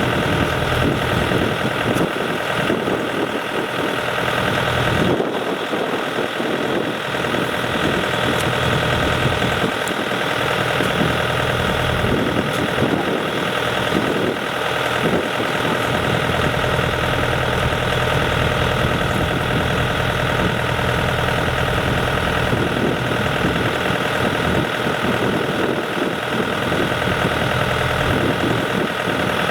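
Diesel engines of farm machinery, a rice combine harvester and a tractor, running steadily.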